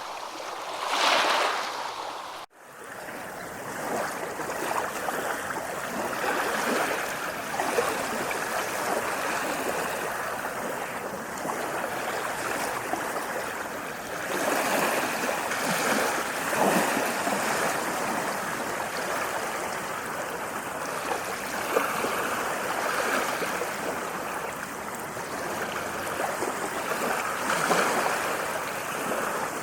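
Ocean waves washing, two surges at the start, then a sudden brief dropout about two and a half seconds in, after which the water continues as a steadier rushing with swells now and then.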